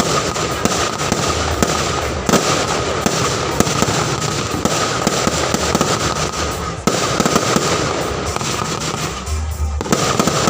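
Fireworks display: a continuous dense crackling of bursting shells, with a few deep booms.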